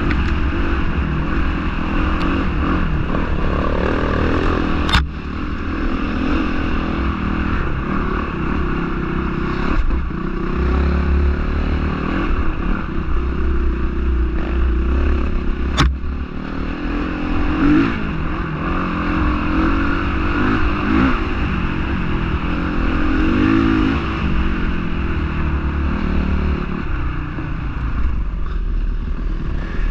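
Honda CRF450R dirt bike's single-cylinder four-stroke engine running hard, its revs rising and falling. There are two sharp clicks, one about five seconds in and one about sixteen seconds in.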